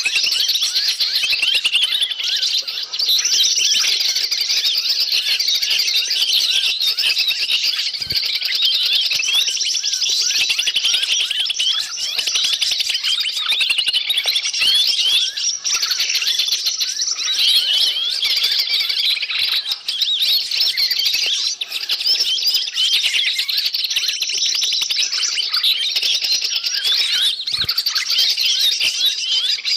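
A dense chorus of many small forest birds calling at once: a continuous, noisy din of overlapping high chirps and twitters with no break, of the kind played as a bird lure (suara pikat) to draw wild birds in.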